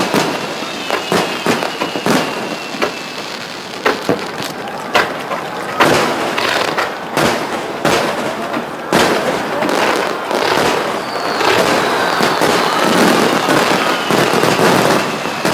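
Fireworks shells bursting in quick succession: many sharp bangs over dense crackling.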